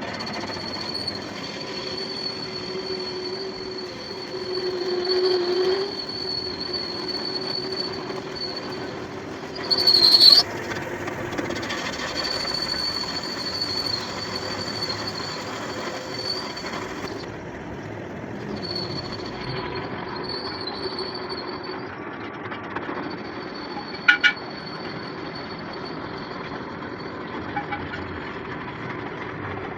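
Metalworking machine running steadily while working steel, with a sustained high-pitched tone over a lower hum. There is a louder burst about ten seconds in and a sharp click near the end.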